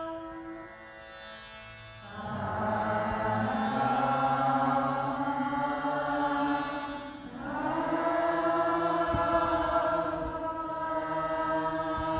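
Voice chanting two long, steady held tones, each about five seconds, with a short breath between them; the first two seconds are quieter.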